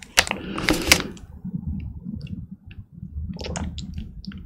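Close-miked mouth sounds of a person chewing: wet clicks and smacks, two sharper ones in the first second, then sparse light ticks and a few more clicks near the end.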